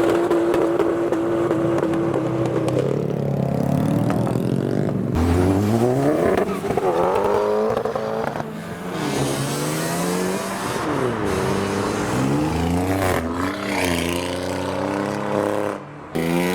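Modified cars pulling away one after another, engines revving up and dropping back through gear changes as they pass. One engine holds a steady note for the first few seconds before the revving starts.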